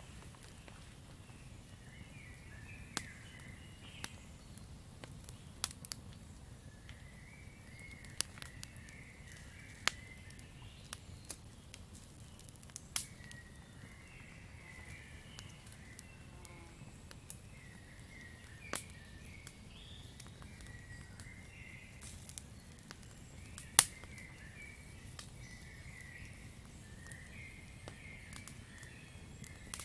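Campfire crackling: a low steady rumble of burning wood with irregular sharp pops, the loudest about 24 seconds in. Chirping from the night forest comes and goes in short clusters behind it.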